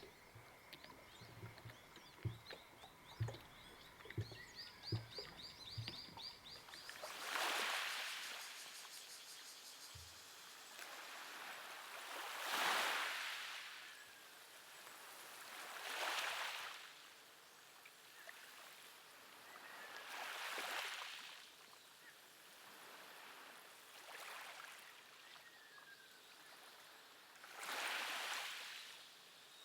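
Waves washing onto a shore, each swell rising and falling away roughly every four seconds, starting about seven seconds in. Before that, a run of high chirps over soft low thumps.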